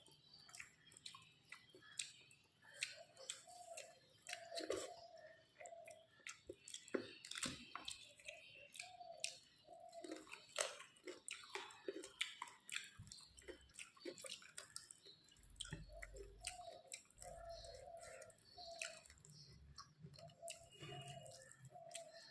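Close-miked chewing of a rice meal, with many wet, sticky mouth clicks at an irregular pace.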